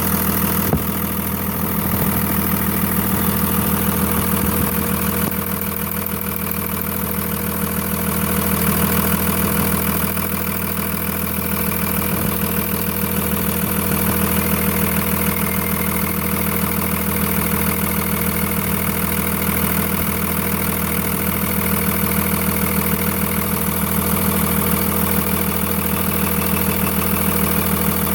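Cummins diesel engine idling, heard through a mechanic's stethoscope, with a steady rapid knocking in the running beat, which the owner fears is a worn piston pin.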